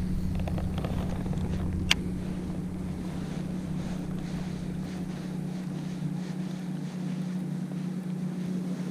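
A steady low hum under light wind noise, with one sharp click about two seconds in.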